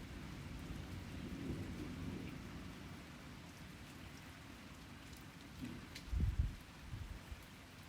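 Steady rain falling during a thunderstorm, with low rolling thunder in the first few seconds. A short, loud low thump about six seconds in, just after a sharp click.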